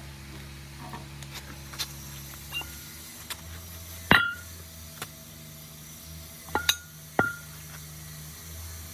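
Metal parts clinking against each other: a few sharp clinks that ring briefly, one about halfway through and three close together near the end, over a steady low hum.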